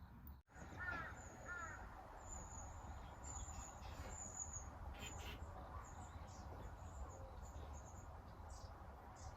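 Faint outdoor ambience with small birds chirping: two short chirps about a second in, then a run of thin, high chirps over a low steady rumble.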